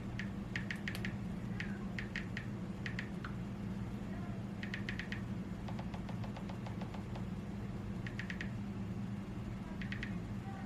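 Steady low hum of room noise, with short clusters of three or four quick, high ticks or chirps recurring every second or so.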